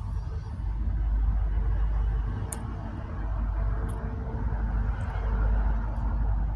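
Low rumble of road traffic that swells and fades as vehicles pass, with a few faint, short clicks in between.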